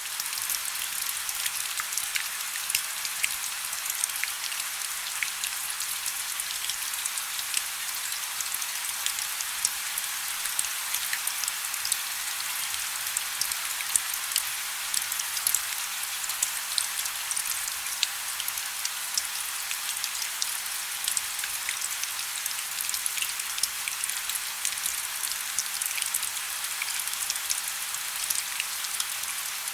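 Wood fire burning in a fireplace: a steady hiss with frequent small, sharp crackles and pops from the burning logs, coming at irregular times.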